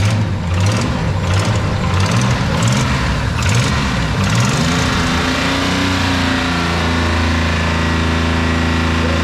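Toyota Celica Supra Mk2 engine running. Its speed rises and falls unevenly for the first four seconds or so, then settles to a steady idle.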